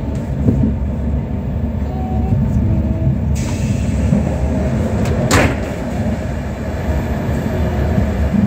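Passenger train running, heard from inside the carriage: a steady low rumble with one sharp clack about five seconds in.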